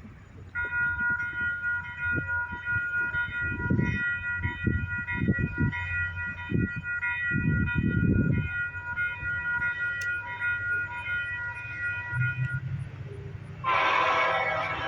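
A diesel locomotive air horn sounds one long, steady chord for about twelve seconds over the low rumble of a train. A louder, denser sound takes over near the end.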